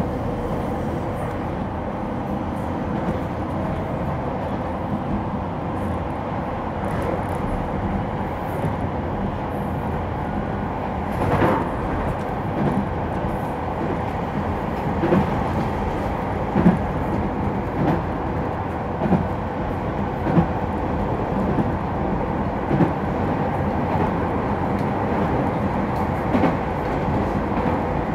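Keihan 800 series electric train with Toyo IGBT inverters running along the line, heard from inside the car: a steady rumble of wheels on rail, with short clicks and thumps every second or two as the wheels pass rail joints.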